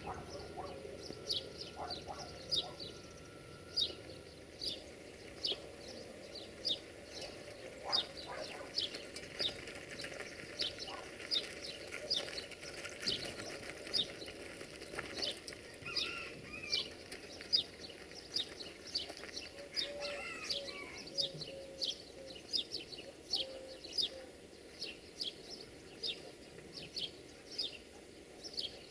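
Birdsong: one bird repeating a short, high, falling chirp about one and a half times a second, with a few other bird calls now and then.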